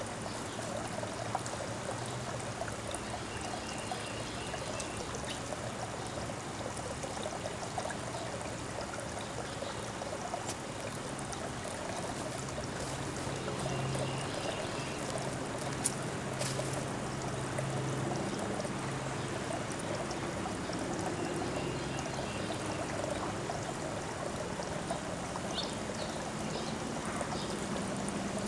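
Steady trickling, running water, with a few faint short chirps now and then and a single sharp click about two-thirds of the way through.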